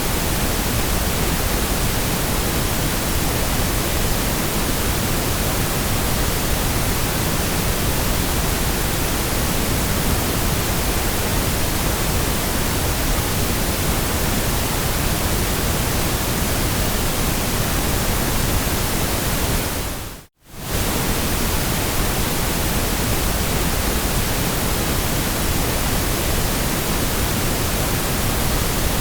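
Steady white noise, an even hiss across all pitches, that cuts out for a split second about twenty seconds in before resuming unchanged.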